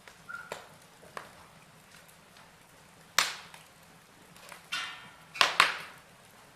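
Wood fire burning in a fireplace, with logs crackling and popping: scattered sharp pops, loudest about three seconds in and twice in quick succession near the end, and a brief hiss just before them.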